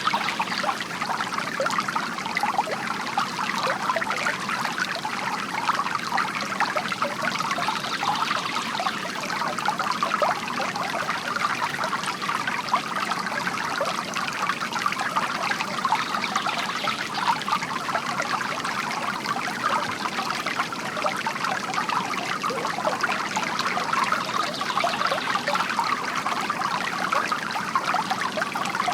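Bamboo water fountain trickling and splashing steadily into its basin.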